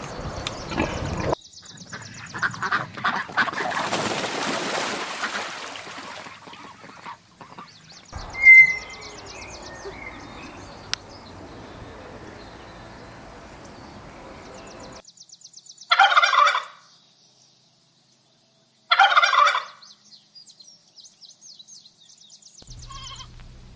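Turkeys gobbling, with two loud short gobbles about three seconds apart in the second half and quieter farmyard noise before them.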